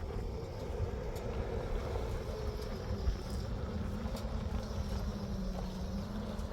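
A motor vehicle's engine running steadily, with a deep rumble and a low steady drone.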